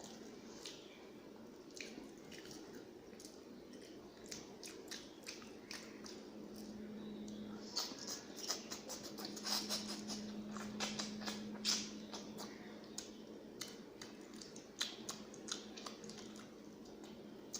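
Close-miked chewing and wet, squishy mouth sounds of someone eating rice with fish and curry, with many small clicks, busiest and loudest around the middle.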